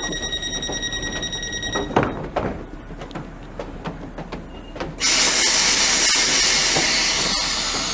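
A steady high-pitched whine for about two seconds, then, about five seconds in, the loud rushing noise of a train starting suddenly and carrying on.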